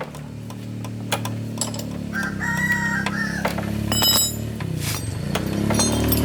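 Honda four-stroke motorbike engine running steadily, with a rooster crowing once about two seconds in.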